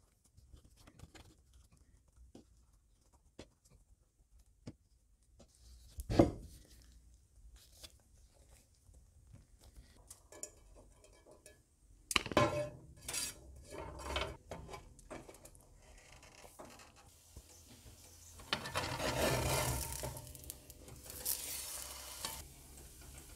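Soft rustling and small taps as a wheat tortilla is folded by hand, with one thump about six seconds in. About halfway there is a burst of knocks and clanks from a frying pan. Near the end a folded crunchwrap is set into hot oil in a non-stick pan and sizzles.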